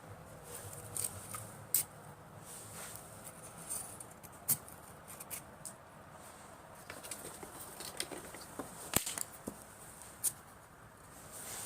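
Scattered sharp clicks and light snaps of firewood being handled and set up for a fire, irregular and a few per second at most, the sharpest snap about 9 seconds in, over a faint steady hiss.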